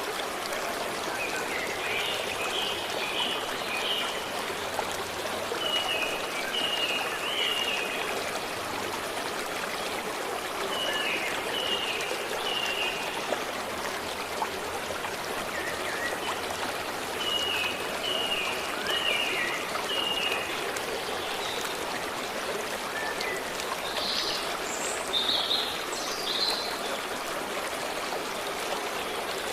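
A stream running steadily, with birds singing over it. A short phrase of three or four quick notes repeats every few seconds, and louder, higher calls come in near the end.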